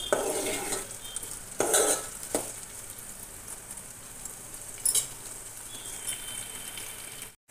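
Chopped onions, dried red chillies and garlic sizzling steadily in hot oil in a metal pot, frying well. A steel spoon scrapes and clinks against the pot a few times in the first two seconds, with one more clink about five seconds in.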